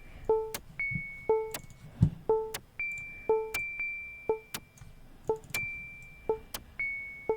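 Electronic synthesizer loop playing back: short plucked synth notes in pairs about once a second, with a higher ringing tone and sharp percussive clicks, and a low thump about two seconds in.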